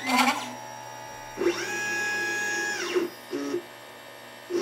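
LitePlacer pick-and-place machine's stepper motors driving the head: a short move at the start, then a longer move of about a second and a half whose whine rises in pitch, holds and drops as it slows, then a brief short move.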